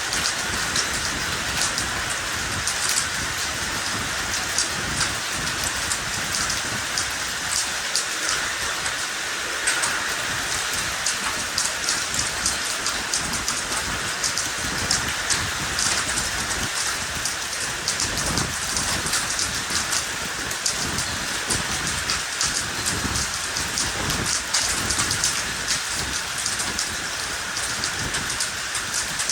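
Heavy downpour of rain mixed with hail: a steady hiss of falling water with many sharp ticks of ice and drops striking hard surfaces.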